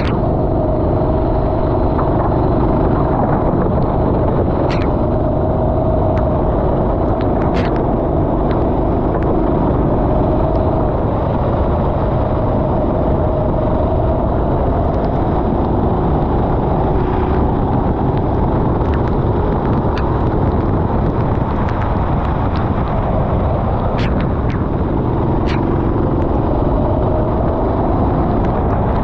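Racing go-kart engine running under load, its pitch rising and falling through corners and straights, under a loud steady rush of noise, with a few sharp clicks.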